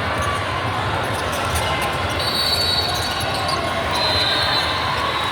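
Basketball dribbled on a hardwood gym court amid the steady, echoing noise of a game in progress in the hall.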